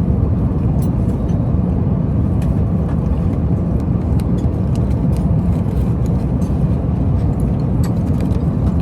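Steady airliner cabin noise: the even, low rumble of the jet in cruise, with faint scattered small clicks over it.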